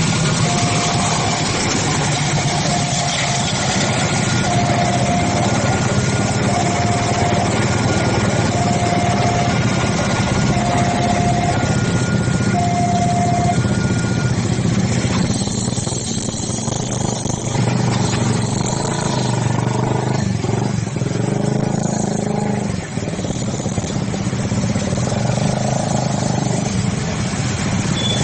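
Level-crossing warning alarm sounding a repeated tone about every second and a half, over the steady running of motorcycle and car engines waiting at the crossing. About halfway through, the alarm stops and the engine noise of the traffic carries on.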